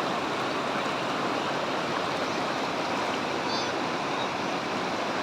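Steady rushing of a waterfall, with a brief high chirp about three and a half seconds in.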